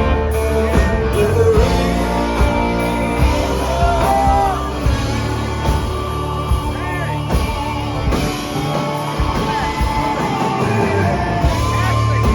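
Live rock band playing, with guitars, bass and drums and a singing voice.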